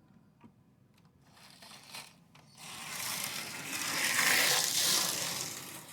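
Small electric model locomotive's motor and gears whirring and grinding as it runs forward along the track. The sound swells about two and a half seconds in and fades near the end.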